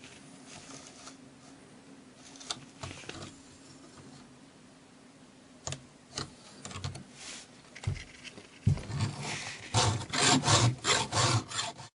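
4.5 mm round chainsaw file in a file holder being stroked across a cutter of a Stihl 028's .325 pitch chain to sharpen it. A few scattered scrapes and clicks come first, then, in the last few seconds, a louder run of quick filing strokes, about three a second.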